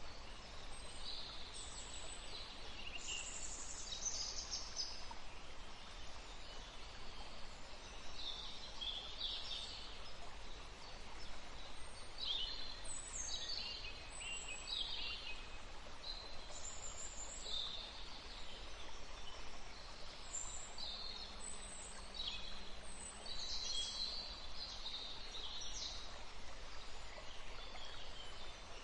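A forest stream running as a steady rush of water, with songbirds singing many short, high chirps and trills throughout.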